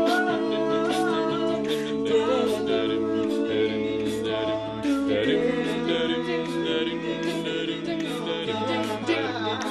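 Male a cappella group singing sustained chords in close harmony, with a bass voice moving underneath and a steady beat.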